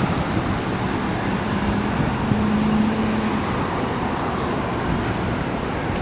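Steady rushing noise of a thunderstorm's wind and heavy rain. A low hum, rising slightly in pitch, sounds from about one second in to three and a half seconds in.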